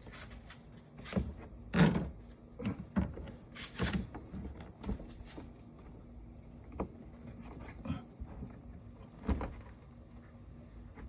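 Irregular clicks and knocks of metal and plastic parts being handled while a new liftgate gas strut is fitted, with the loudest knocks about two, four and nine seconds in.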